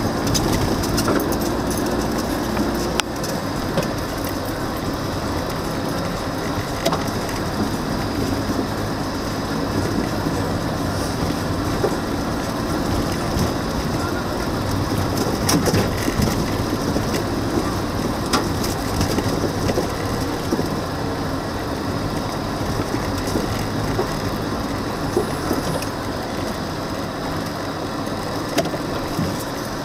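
Car driving slowly over a rough, unpaved track: steady engine and road noise with frequent small knocks and rattles.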